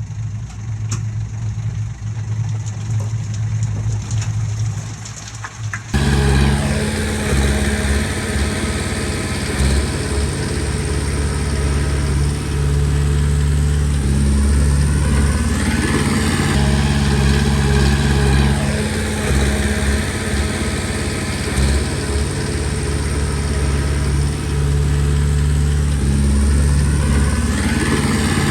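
Komatsu D20P bulldozer's diesel engine running. About six seconds in it suddenly becomes much louder and closer, then its pitch rises and falls a few times as engine speed changes while it works.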